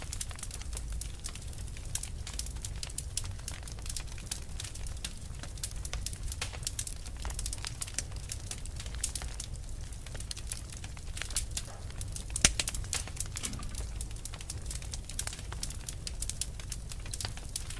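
Fire crackling: a dense, irregular run of sharp snaps and pops over a steady low rumble, with one louder pop about twelve seconds in.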